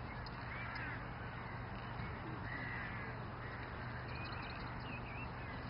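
Birds calling several times with short arching calls, over steady outdoor background noise and a low hum.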